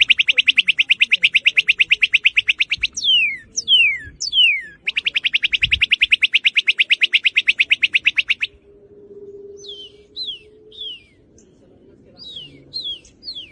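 Northern cardinal singing: loud, clear whistles that slur steeply downward, alternating with two long, very fast trills. Near the end come softer paired downslurred notes.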